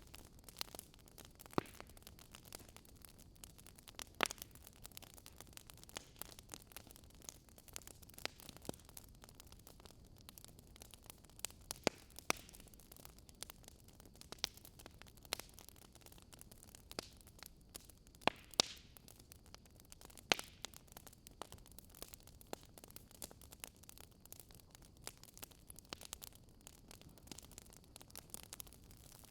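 Wood fire crackling softly: a steady low hiss with irregular sharp pops and snaps.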